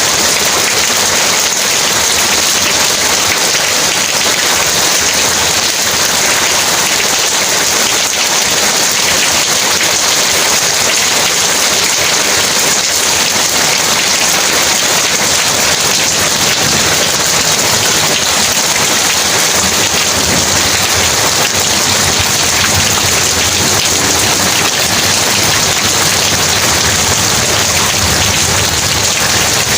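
Heavy rain falling steadily: a dense, unbroken hiss of drops.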